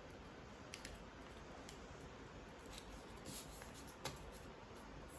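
Origami paper being folded and creased by hand: faint scattered crinkles and soft ticks of the sheet.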